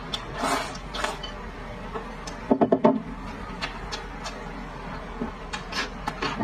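Close-miked eating sounds: wet chewing, sucking and lip smacks on soft, fatty red-braised pork, loudest in a quick run of smacks about two and a half seconds in. Near the end come short crisp crunches as a raw green chili is bitten.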